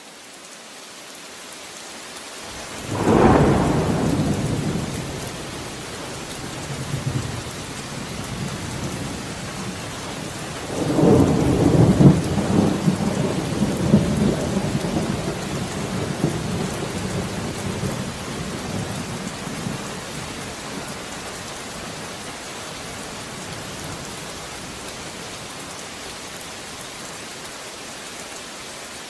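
Thunderstorm: steady heavy rain with two claps of thunder, a sharp crack about three seconds in that rumbles away, then a longer rolling peal from about eleven seconds in that slowly fades under the rain.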